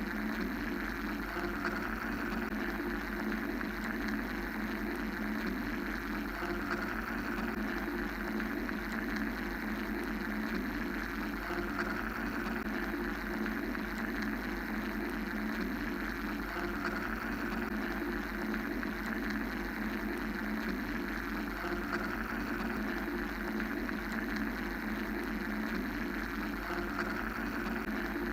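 Steady mechanical-style white-noise drone, a low hum and a midrange rumble under a hiss that swells gently and fades every few seconds.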